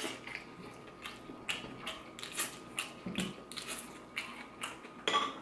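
Close-up chewing of a mouthful of Haitian pickled cabbage slaw (pikliz): a string of short, crisp crunches at an uneven pace, a few a second.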